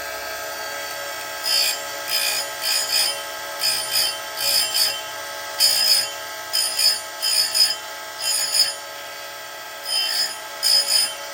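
Oregon 410-120 bench chain grinder's motor running steadily while its CBN wheel is brought down onto .325 chainsaw chain cutters one after another. Each touch is a short, high-pitched grinding burst; they start about a second and a half in and come often in quick pairs, with a short break near the end.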